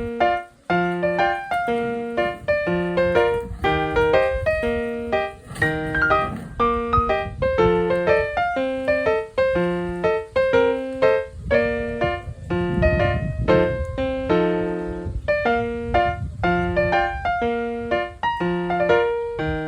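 Background piano music with a steady, bouncy rhythm of repeated short notes.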